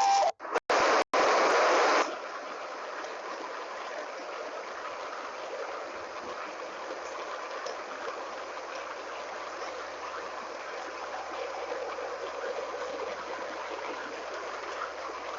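Flowing stream water rushing steadily. It is louder and broken by brief abrupt dropouts in the first two seconds, then settles into an even, steady rush.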